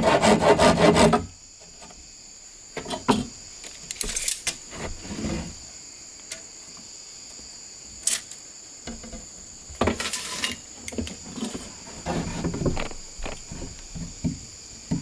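A hand saw cuts bamboo in quick, even strokes that stop about a second in. After that a steady high insect drone carries on, with scattered knocks and scrapes of the bamboo being handled, and the sawing starts again at the very end.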